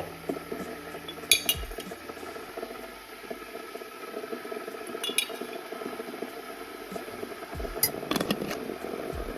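A few light clinks of tableware: once about a second in, again in the middle and a cluster near the end, over a steady low background hum.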